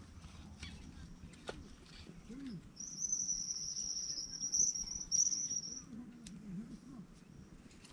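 An insect, cricket-like, trilling a steady high buzz for about three seconds from around three seconds in. Faint clicks and a few short low calls sound in the background.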